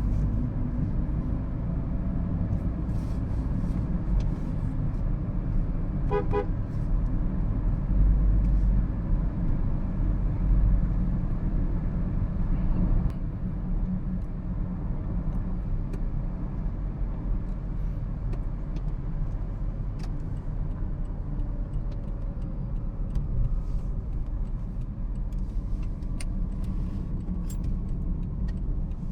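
Steady low rumble of a 2013 Toyota Prius being driven, with a brief car horn toot about six seconds in.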